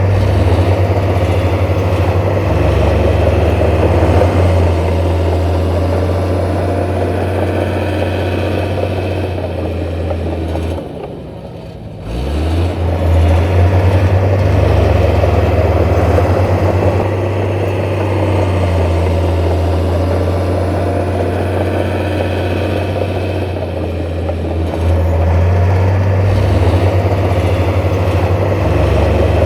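Heavy diesel engine of earthmoving machinery running steadily. The engine sound drops away briefly about eleven seconds in, then picks up again.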